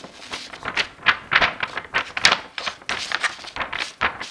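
Felt-tip markers scratching back and forth on colouring-book paper in quick, even strokes, about four or five a second.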